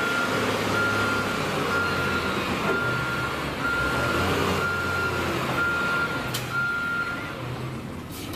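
Backup alarm on a heavy vehicle beeping about once a second over a low, steady engine rumble. The beeping stops near the end, and two short hisses follow.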